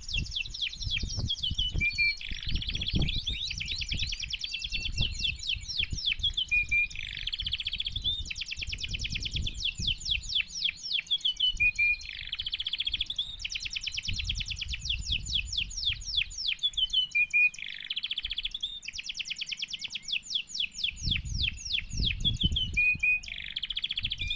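Domestic canary singing a long, continuous song of rapid high trills and rolls, with a similar phrase coming back about every five seconds. Low bumps are heard underneath.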